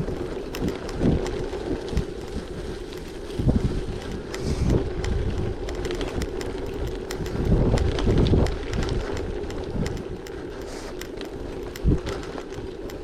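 Gravel bike rolling on a gravel track: a steady tyre hum and crunch with a scatter of small stone clicks. Wind buffets the microphone in gusts, strongest about two-thirds of the way through.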